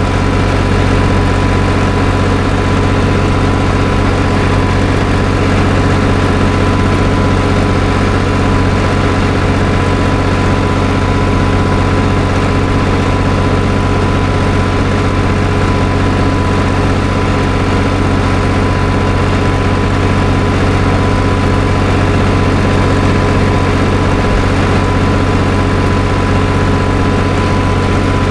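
Farm tractor's diesel engine running at a steady speed, an even drone that neither rises nor falls.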